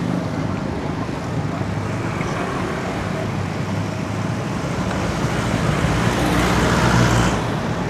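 Road traffic running steadily around a cyclist, with engine rumble and tyre hiss. A motor vehicle grows louder from about five seconds in and falls away just before the end, as it passes close by.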